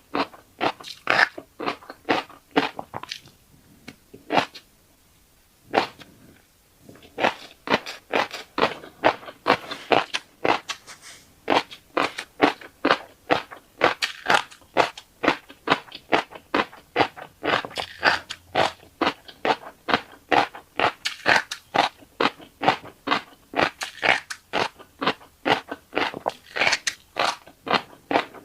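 Close-up chewing of fish roe, the eggs popping and crackling in quick, irregular clicks several times a second, with a short lull about four seconds in.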